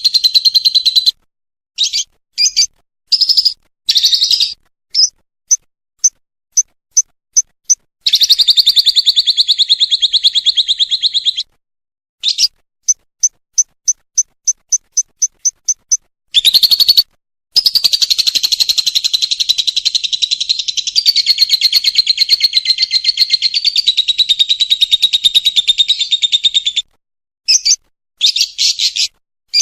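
Lovebird singing 'ngekek': long, fast, high-pitched chattering trills, the longest lasting about ten seconds, broken up by runs of short chirps at about three a second.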